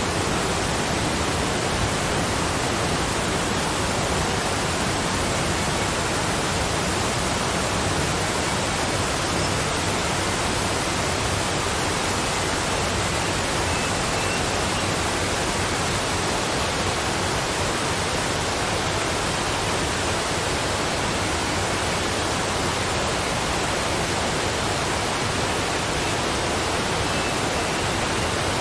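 Waterfall water falling and splashing: a steady, even rushing noise that does not change.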